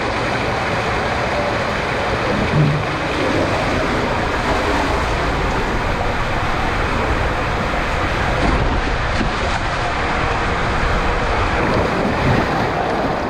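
Water rushing through an enclosed waterslide tube during a body-slide run, a steady loud noise with wind on the microphone and a couple of brief louder bumps.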